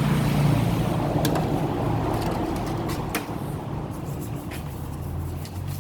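Yamaha YTX 125's single-cylinder four-stroke engine running steadily after an overhaul, with a few sharp clicks over it.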